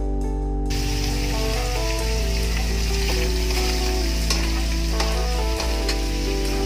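Cubed squash and ground meat sizzling in a hot wok, starting about a second in, while a spatula stirs and scrapes through them. Background guitar music plays underneath.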